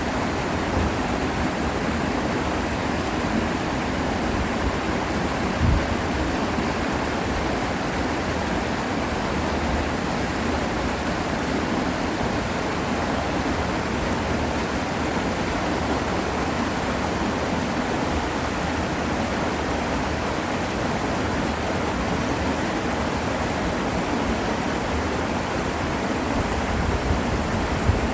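Mountain stream rushing steadily down a rocky valley, a constant even hiss of water. A short low thump about six seconds in.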